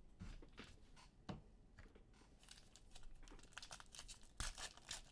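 Faint crinkling and tearing of trading-card pack wrappers, with soft clicks and rustles of cards being handled.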